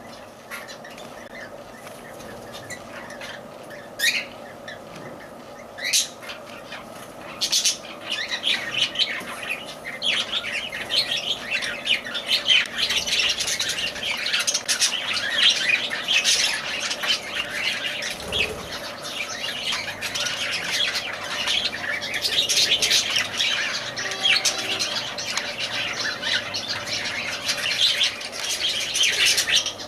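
Lovebirds squawking: a few single high-pitched calls in the first seconds, then continuous chattering from about eight seconds in.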